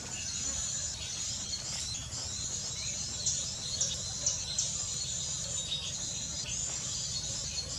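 Steady high insect chorus with short high bird chirps scattered over it, and a low rumble underneath.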